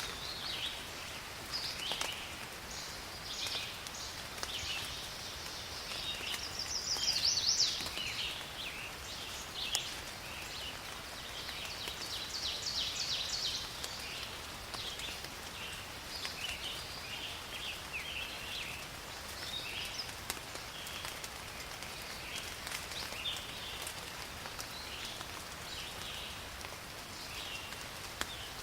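Steady rain falling in a forest, with many short, high chirping calls scattered throughout and a brief louder burst of chirping about seven seconds in.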